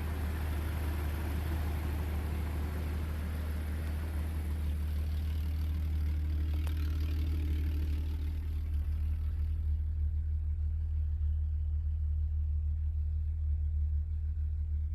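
Car engine idling steadily with a deep, even drone. It is a freshly swapped-in motor running with its water pump working and no leaks.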